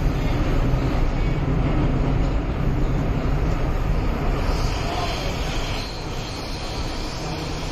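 Cabin noise of an MTR M-Train electric multiple unit running on the Tseung Kwan O line, heard from beside a car door: a steady low rumble and rush of the moving train, a little quieter from about six seconds in.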